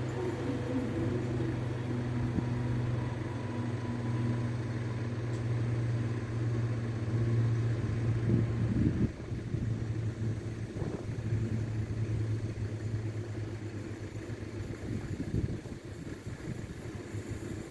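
Steady low mechanical hum of idling vehicle engines at a level crossing, dropping away sharply about nine seconds in and fading further later.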